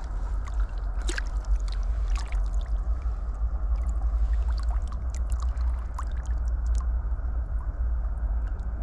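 Flowing river water with scattered small splashes and drips over a steady deep rumble.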